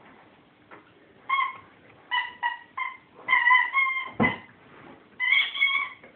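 Rubber squeaky toy squeaking again and again as a Great Dane plays with it: about seven short, high squeaks, a few of them drawn out, with a single knock just after four seconds.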